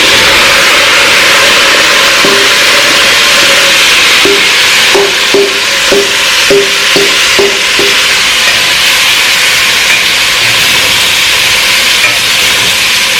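Chicken feet frying in hot oil in a pot: a loud, steady sizzle. Between about four and eight seconds in, a quick run of short knocks, about two a second, as a utensil strikes the pot while the pieces are stirred.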